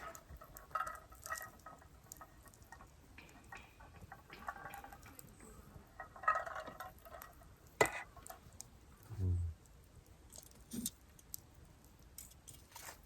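Cookware clinking and knocking, with light rustling and scattered sharp clicks, as champon noodles go into a pot of leftover pork-shabu broth.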